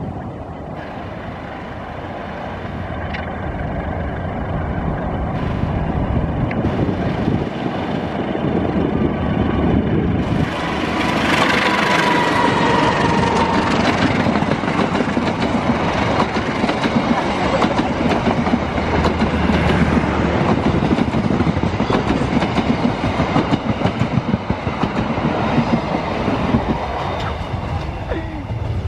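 Passenger train hauled by a KAI diesel locomotive approaching and passing close by, its wheels clattering over the rail joints. It grows steadily louder and is loudest from about ten seconds in, as the coaches rush past.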